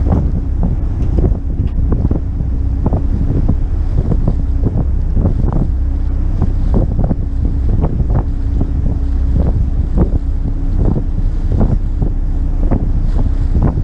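McKinna 65 motor yacht underway: a steady low engine drone under heavy wind buffeting on the microphone, with frequent irregular thumps.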